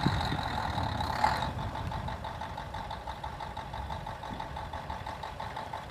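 An engine running steadily at idle, with a steady whine above the low rumble and a brief louder noise about a second in.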